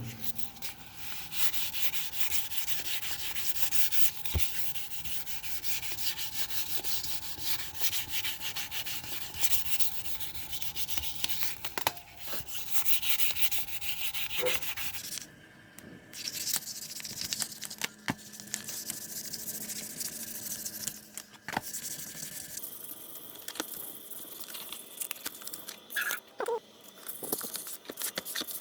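Rapid, continuous rubbing strokes against a hard surface, like hand sanding or scuffing, with the strokes varying in loudness and pausing briefly a few times.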